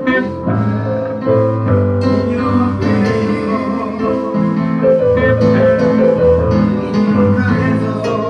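Church instrumental music led by guitar, with a bass line moving under sustained chords.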